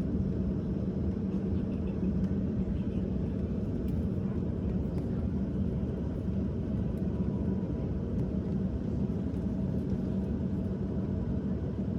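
Steady low rumble and hum inside a jet airliner's cabin as it taxis after landing.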